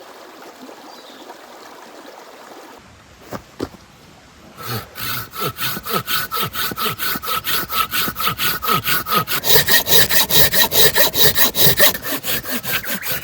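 Hand saw cutting through wood with quick, even back-and-forth strokes, about four a second, starting about five seconds in after two light knocks. The blade rings faintly through the strokes, which grow louder partway through the cut.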